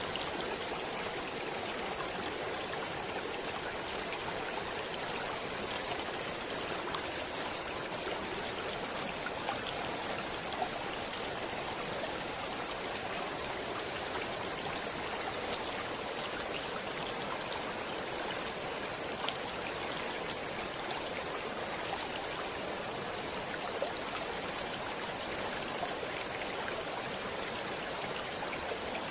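Stream water flowing steadily, an even rushing with small splashing ticks scattered through it.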